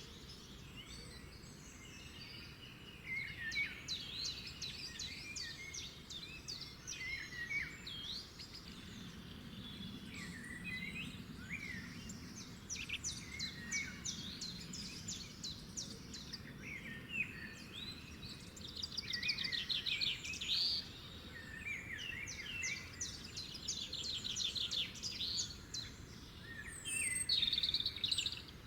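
Several songbirds singing and chirping, with quick trills and short whistled phrases overlapping, over a faint steady background hum.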